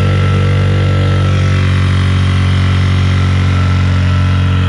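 Honda CRF50's small four-stroke single-cylinder engine running steadily at an even speed.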